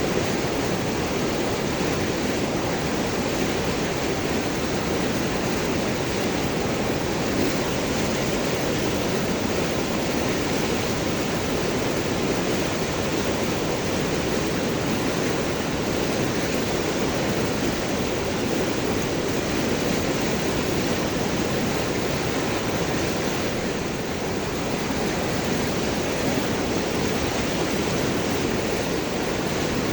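River water rushing and gurgling over and around large rocks, a steady, even flow.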